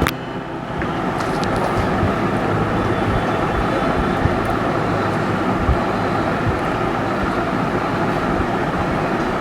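A sharp click, then a steady, even rushing background noise with a faint hum.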